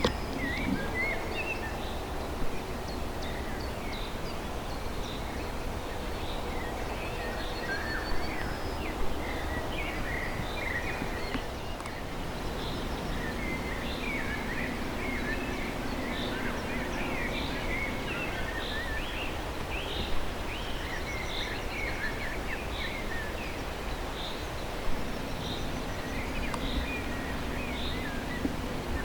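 Small birds chirping and singing over a steady low background rumble, with a few brief louder knocks.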